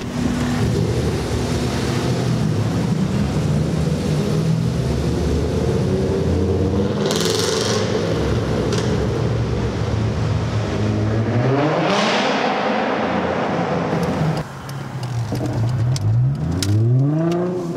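2004 Chrysler Crossfire's 3.2-litre V6 revving and accelerating through its exhaust. The engine note climbs in pitch about two-thirds of the way through and again near the end.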